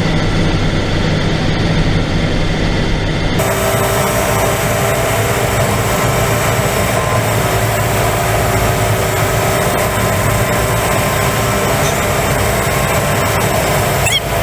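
Truck engine running steadily with road and cab noise, heard from inside the cab. About three seconds in, a brighter hiss joins and stays.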